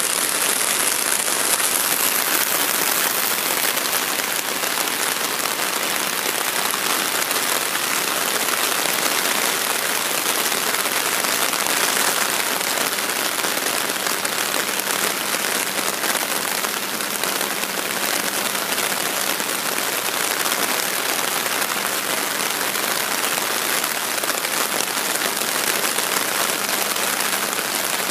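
Heavy rain falling steadily, a dense even hiss of drops on wet ground, foliage and standing water.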